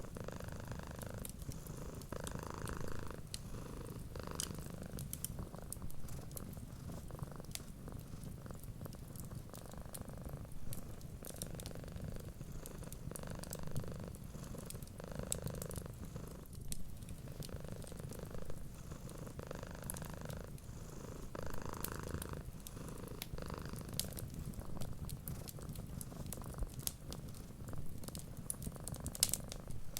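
Cat purring steadily, swelling and fading in a slow rhythm with each breath, over the light crackle of a wood fire: scattered sharp little snaps.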